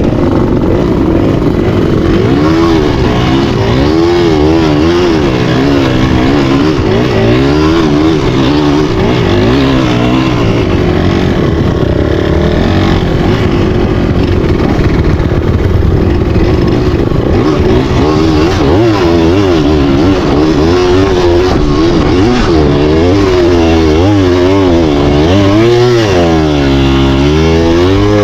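Dirt bike engine running hard, its pitch rising and falling again and again as the throttle is worked, with a deep drop and climb back up near the end.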